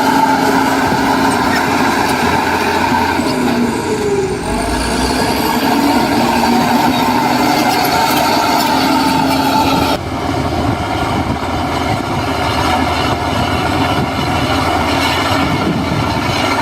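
Heavy diesel construction machinery running steadily under load, its engine note dipping briefly about four seconds in; the sound changes abruptly about ten seconds in.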